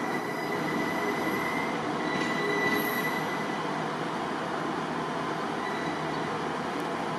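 ScotRail diesel multiple unit train running steadily at the station, with a faint high whine that comes and goes.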